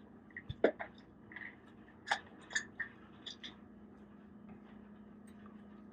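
Faint mouth sounds of someone eating microwaved string cheese: a few soft smacks and clicks in the first few seconds, then quieter. A low steady hum runs underneath.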